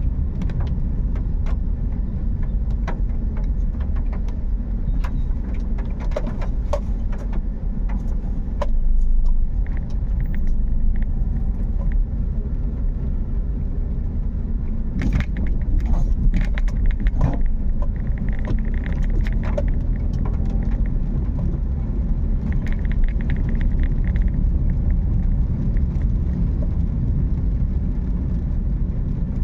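Car driving in the rain: a steady low rumble of engine and tyres, with many scattered short clicks and taps throughout. A faint high tone shows up twice in the second half.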